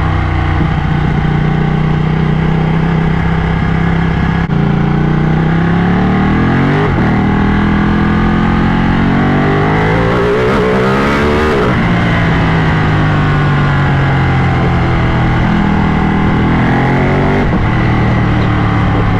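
Ducati motorcycle engine pulling hard through the gears, its pitch climbing and then dropping at each upshift, before settling into a steadier drone at cruising speed with another shift near the end.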